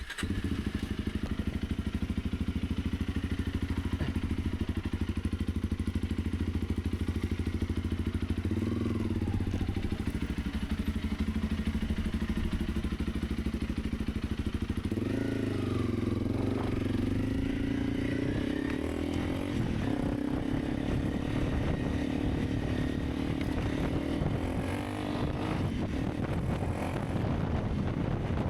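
Honda CRF300 Rally's single-cylinder engine running at a steady idle. The engine note rises briefly about a third of the way in, then rises again about halfway and stays higher to the end.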